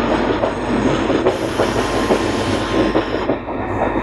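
Express train coach running along the track: a steady rumble of wheels on rail, with irregular clicks and clatter as the wheels pass over rail joints.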